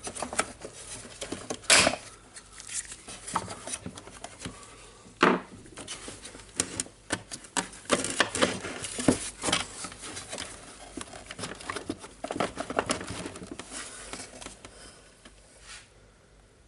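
Irregular clicks and clatter of hard plastic parts and small hand tools as a site radio's casing is worked apart to reach an internal switch, with sharper knocks about 2 and 5 seconds in. It thins out and fades near the end.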